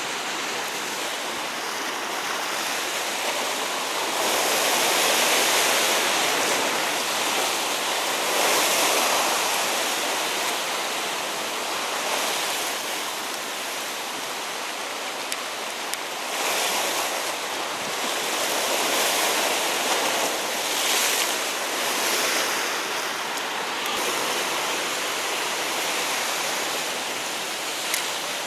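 Sea waves washing against a rocky shore, swelling and easing every few seconds, with a short sharp click near the end.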